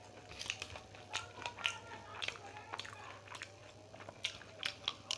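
Close-up chewing of crispy fried samosa pastry: irregular crunches and wet mouth sounds.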